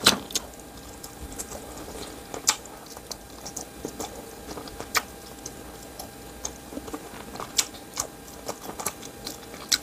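Close-up eating sounds of chewing chicken from samgyetang: irregular wet mouth clicks and smacks, a few sharper than the rest.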